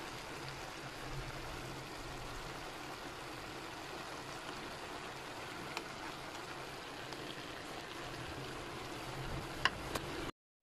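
Shredded cabbage and chile sauce sizzling and simmering in a frying pan as a steady hiss, with a couple of sharp clicks near the end as the spatula touches the pan.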